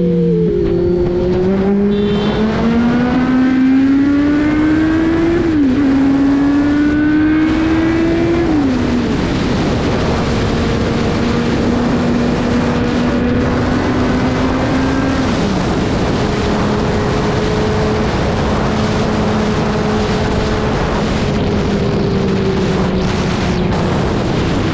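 Inline-four sport motorcycle engine pulling hard through the gears, its pitch climbing and then dropping at upshifts about five and nine seconds in. It then runs at a fairly steady speed with one more drop in pitch later on, under heavy wind and road noise.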